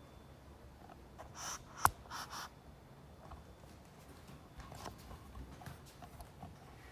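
Faint handling noises: a few brief rustles and one sharp click about two seconds in, over quiet room tone.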